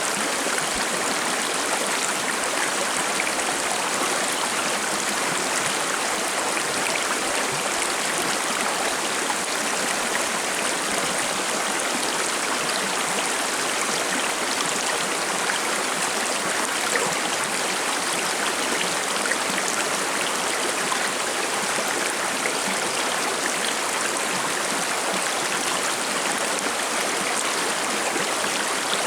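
Forest stream babbling and gurgling as water flows over rocks, a steady, even rush.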